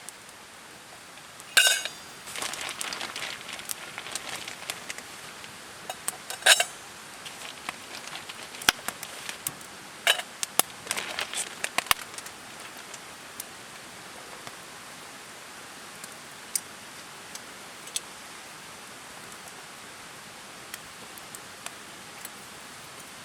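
Camp cookware and utensils being handled: two loud ringing clinks, about a second and a half in and again about six seconds in, with bursts of lighter clattering between them and around ten to twelve seconds in, then only occasional ticks, over a steady hiss.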